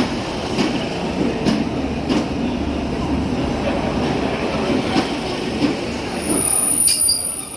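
Train running on the rails, a steady low rumble with occasional wheel clicks. A high-pitched wheel or brake squeal joins near the end.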